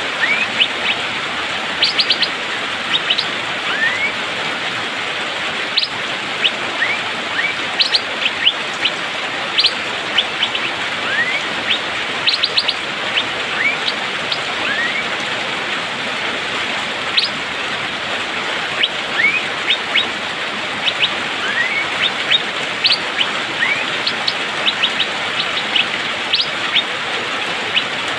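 Asian fairy-bluebird giving short, sharp, upward-sliding 'pik' calls, repeated irregularly and often in quick clusters, over a steady background hiss.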